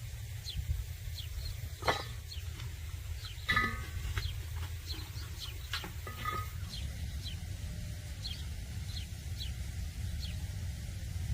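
Birds chirping: short, high, falling chirps about twice a second, with a few sharp knocks and a couple of brief clucks near the middle, over a steady low rumble.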